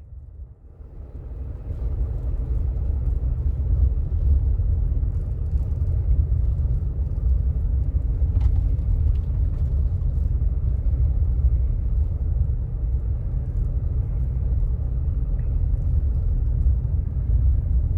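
Steady low road rumble of a moving car heard from inside, tyres and engine while driving, building up over the first two seconds and then holding steady.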